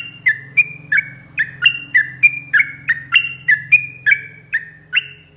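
Yellow-vented bulbul (trucukan) singing a fast 'ropel' series of loud, sharp chirping notes, repeated evenly about three times a second.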